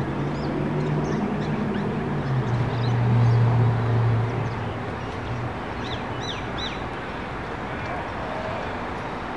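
Birds chirping in short high calls, over a steady low hum that swells about three seconds in and fades out a couple of seconds later.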